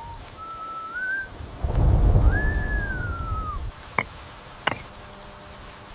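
Two whistled notes, a short one rising slightly and then a longer one that rises and falls, over the hiss of rain. A low rumble of thunder, the loudest sound, swells under the second whistle, and two sharp clicks follow.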